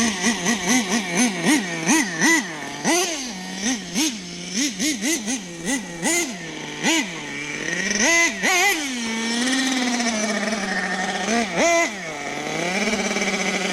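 Small .21 nitro engine of a Team Associated Mini MGT 3.0 RC monster truck, blipping the throttle in many quick short revs, then a few longer revs with a brief held run, each falling back to a high-pitched idle between.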